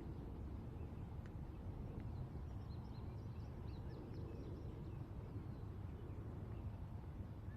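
Outdoor ambience: a steady low rumble of distant highway traffic, with a bird chirping several times for a second or so, about three seconds in.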